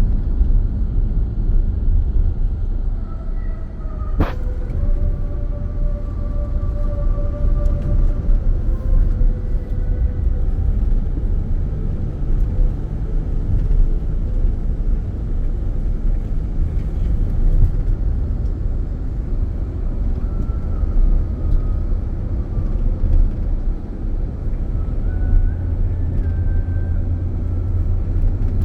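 Strong wind buffeting the microphone: a loud, steady low rumble, with one sharp click about four seconds in.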